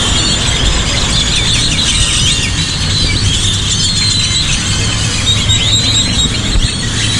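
A large flock of birds chattering in a tree: many overlapping short, high chirps and whistles, over a low steady rumble.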